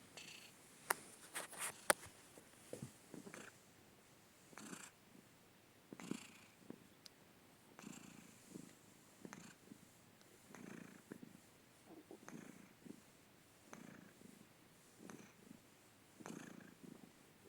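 Domestic cat purring softly while asleep, the purr swelling and fading in a slow rhythm with each breath in and out. A few sharp clicks come about a second in.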